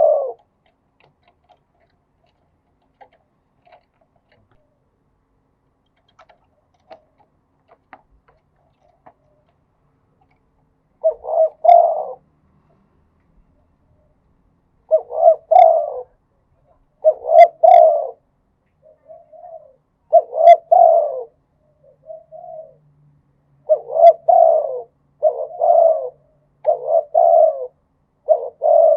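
Spotted dove cooing in repeated phrases. After about ten seconds of quiet with a few faint clicks, the coos begin and come more and more closely together toward the end, with a couple of softer notes between them.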